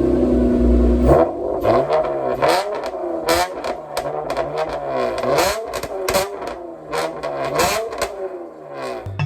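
Honda Accord 3.5-litre V6 through a Borla axle-back exhaust, holding a steady low drone for about a second, then revved in a quick run of throttle blips, about two a second, each rising and falling, with sharp crackles between them.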